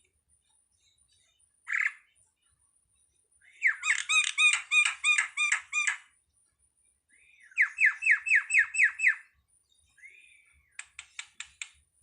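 A jalak (starling) calling. A short note comes first, then a fast run of harsh repeated notes for about two seconds, then a run of quick rising notes. An arched whistle and a quick series of clicks follow near the end.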